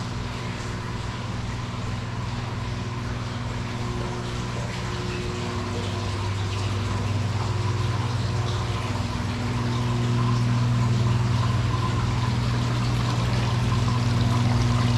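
Aquarium pump humming steadily over running water, growing louder about ten seconds in.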